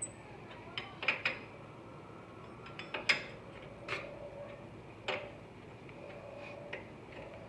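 Metal hand wrench clicking and clinking as it works the hub's mounting bolts a little at a time, in scattered, irregular sharp clicks, the loudest about three seconds in.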